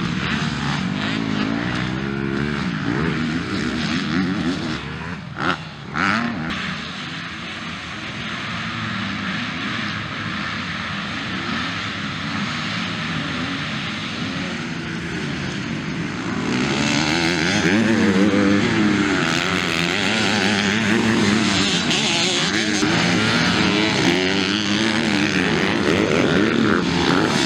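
Motocross bike engines racing, several at once, rising and falling in pitch as the riders open and close the throttle. The sound grows louder from about sixteen seconds in.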